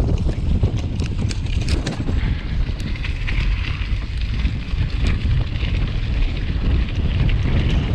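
Wind buffeting the microphone of a camera on a moving mountain bike, with scattered clicks and rattles of the bike over the trail.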